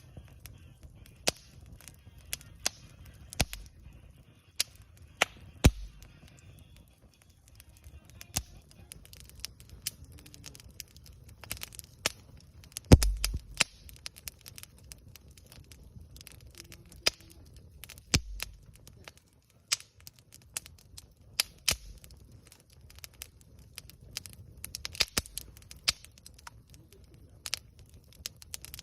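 Wood campfire crackling, with irregular sharp pops from the burning wood; the loudest pop comes about thirteen seconds in.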